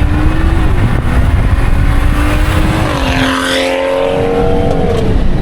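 BMW 340i's turbocharged inline-six running through a catless downpipe and valved aftermarket exhaust while driving, with a dense low rumble. The engine note holds steady, then changes pitch about three seconds in.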